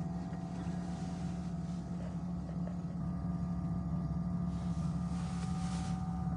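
Steady hum of a car with its engine running, heard inside the cabin.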